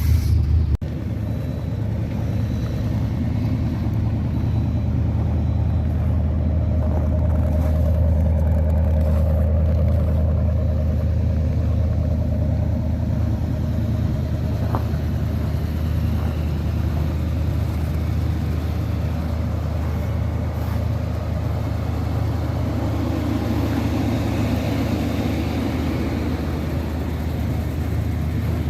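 1978 Ford Thunderbird's V8 with dual exhaust running steadily at a cold idle after a cold start.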